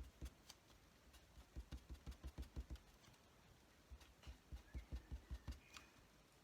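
Felt-tip colouring marker stroked quickly back and forth on card stock, heard as soft rapid taps about four or five a second in two short runs.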